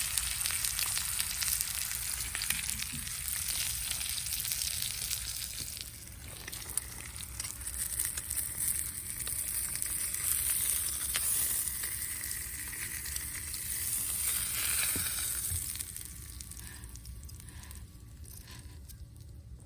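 Food sizzling in a frying pan with fine crackling. The sizzle weakens and dies down over the last few seconds.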